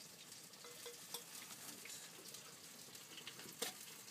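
Faint sizzling and crackling of food frying in hot pans on a grill, with a few sharp clicks, the loudest a little past three and a half seconds in.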